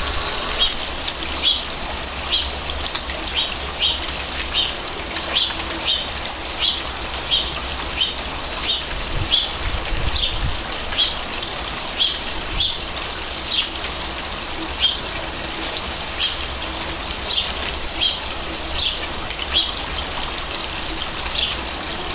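Steady rain falling on a garden pond and its plants, mixed with a small spout of water splashing into the pond. A bird repeats a short, high chirp about once or twice a second.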